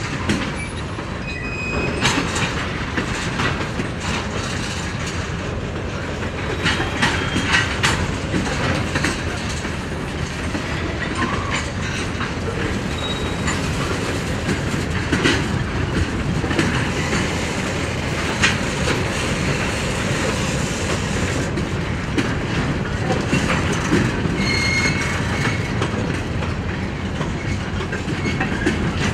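Freight train of tank cars and a boxcar rolling past: a steady rumble of steel wheels on rail, clacking over the rail joints with scattered clanks, and a few brief high wheel squeals.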